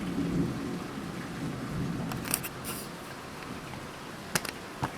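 Thunder rumbling low over steady heavy rain, the rumble fading away over the first couple of seconds. A few light, sharp clicks come in the second half.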